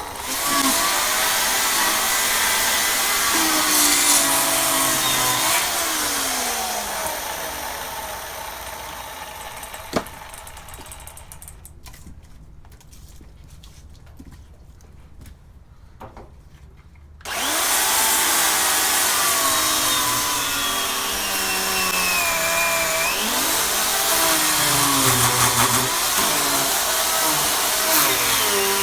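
Two-stroke chainsaw bucking firewood logs into rounds, its engine pitch wavering and dipping as the chain bites into the wood. The saw fades away about a third of the way in, leaving a quieter stretch with a few clicks, then comes back in suddenly and keeps cutting.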